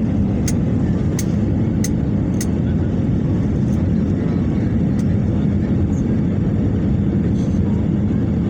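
Steady airliner cabin noise heard from inside the passenger cabin: a constant low rumble of engines and airflow. A few short sharp ticks come in the first two seconds or so, and one more about five seconds in.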